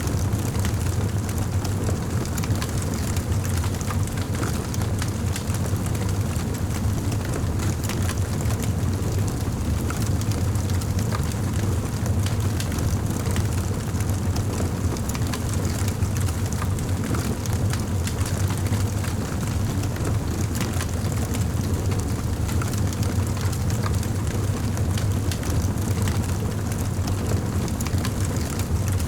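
Wood fire burning in a fireplace: a steady low rumble of flames with many small, scattered crackles and pops.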